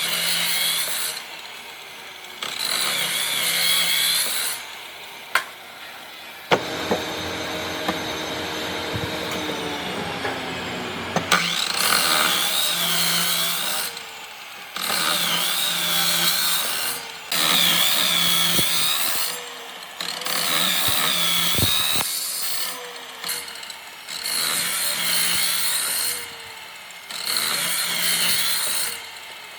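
A power woodworking tool working on wood in repeated short passes, each about a second or two long with a wavering high whine, and pauses between them. In the middle a different steady running sound holds for a few seconds.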